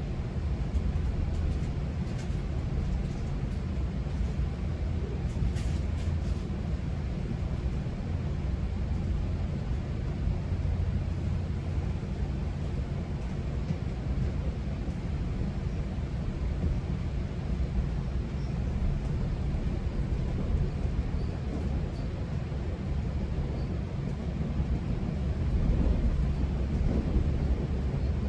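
Interior noise of a GO Transit commuter train coach in motion: a steady low rumble of the running train, with a few faint clicks a few seconds in.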